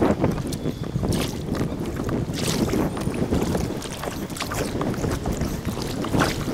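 Kayak paddling sped up by time lapse: paddle strokes splash and drip at irregular intervals over a steady rush of water and wind buffeting the microphone.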